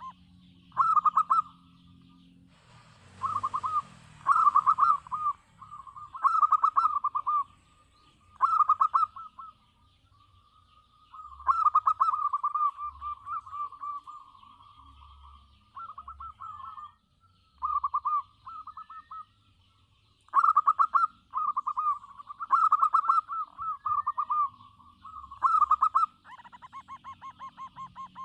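Zebra dove (local perkutut) cooing: a series of short, rapidly pulsed coos, one phrase after another with brief pauses between them. A short noisy burst comes about three seconds in.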